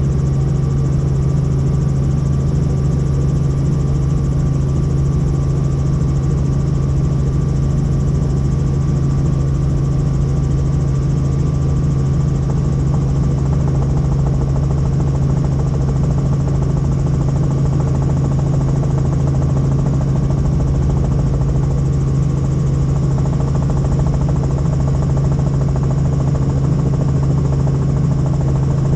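Helicopter's engine and rotors running steadily: a constant loud drone with a strong low hum and no change in pitch.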